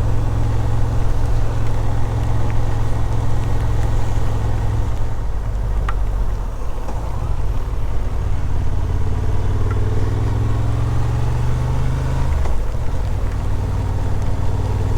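Motorcycle engine running steadily while riding, with a low, even engine note over road and wind noise. The revs shift a few times and fall about twelve seconds in.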